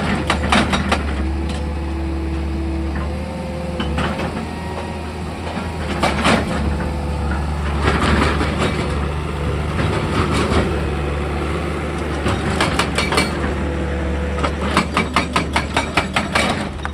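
Excavator's diesel engine running steadily with a low hum, broken by bursts of rapid sharp knocks, ending in a fast even run of about seven knocks a second.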